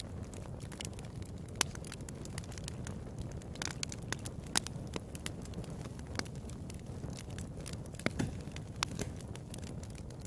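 Wood fire crackling in a fireplace: irregular sharp pops and snaps over a steady low rush of the burning.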